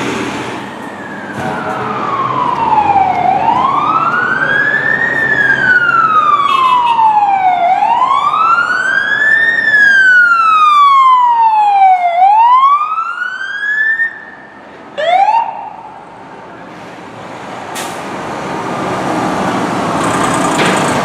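Fire engine siren wailing, its pitch rising and falling in slow sweeps about every four and a half seconds, then one short rise about fifteen seconds in before it cuts off. After that the truck's engine and road noise rumble, growing louder toward the end.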